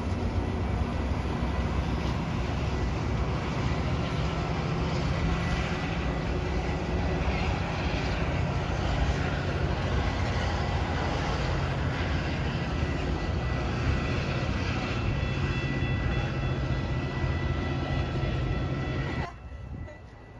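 Metra bilevel commuter train rolling past on the rails: a steady loud rumble of wheels on track with faint high ringing tones over it. About nineteen seconds in, the train sound cuts off abruptly, leaving a much quieter background.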